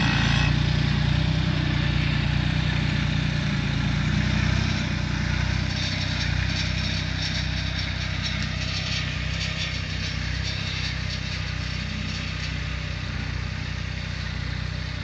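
Kubota B2530 compact tractor's three-cylinder diesel engine running steadily, with a fast clatter joining in for several seconds in the middle.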